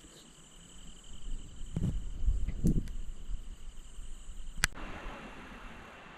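Insects chirring in the field in a steady high, even drone, with low rumbles on the microphone about two to three seconds in. A sharp click about four and a half seconds in cuts the drone off, leaving an even hiss.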